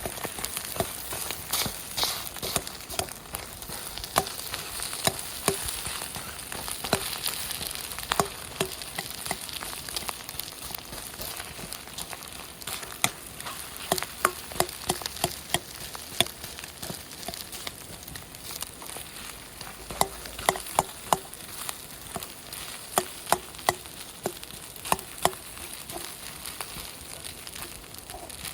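Fried rice frying hard in a pan over a campfire, with a steady sizzle, while a utensil is stirred and scraped through it, clacking with a short ring against the pan in quick runs of several a second, most often in the second half.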